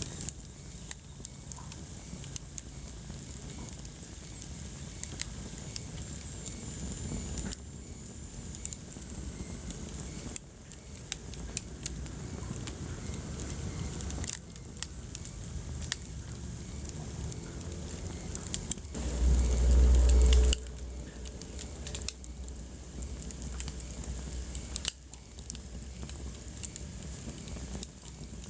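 Wood fire crackling in a fireplace, with frequent sharp pops and snaps over a low, steady rumble. About 19 seconds in, a louder low rumble lasts about a second and a half.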